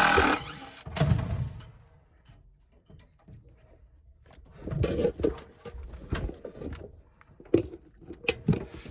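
Scattered knocks, clicks and clatter of tools and metal parts being handled, with a thump about a second in and a cluster of knocks around five seconds in.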